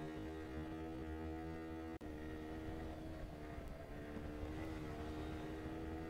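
Single-cylinder sport motorcycle engine running at steady revs while riding, heard from the rider's seat over a low rumble of wind and road. The sound drops out for an instant about two seconds in, and the pitch rises slightly near the end.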